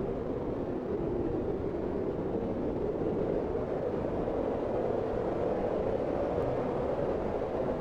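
Steady, muffled fireplace ambience: an even low noise of a burning fire with no distinct crackles or pops.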